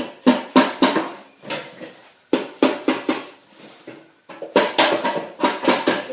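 Dead blow hammer tapping repeatedly on a small engine's crankcase cover to break it loose. The knocks come in quick runs of several a second, each with a short ring, with brief pauses between the runs.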